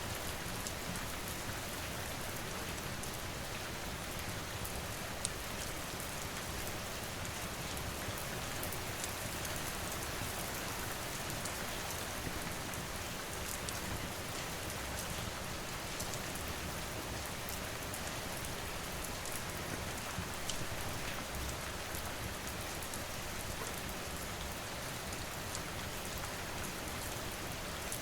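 Steady rain falling, with a few sharp crackles from a wood fire scattered through it.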